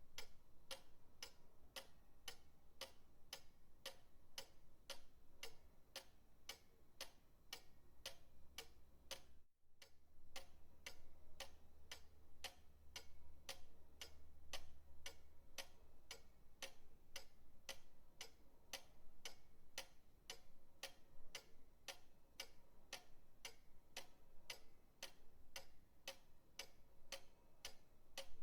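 Pendulum clock ticking steadily, about two sharp ticks a second from the escapement. There is a faint low hum underneath and a momentary break in the sound about nine seconds in.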